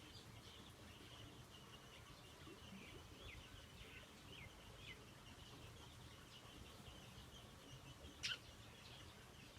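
Faint birdsong: scattered short chirps, a run of four quick descending notes around the middle, and one louder, sharp downward-sweeping call near the end, over a low steady background rumble.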